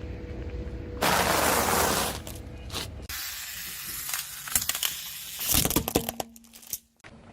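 Objects being crushed under a car's tyre: a loud rush of noise lasting about a second, then a stretch of crunching with a cluster of sharp cracks just before the end.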